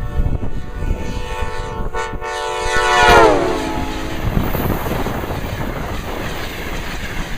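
Amtrak AEM-7 electric locomotive's horn sounding a steady chord as it speeds past, dropping sharply in pitch about three seconds in (the Doppler drop as it passes), then the rush of the passing train with wind on the microphone.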